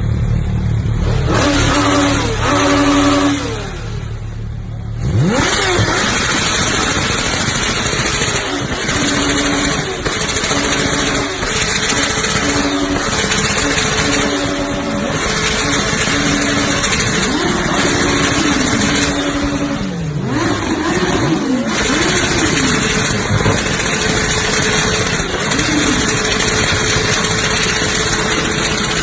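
Kawasaki Ninja H2R's supercharged inline-four engine being revved hard again and again, its pitch sweeping up and falling back. It is loud throughout.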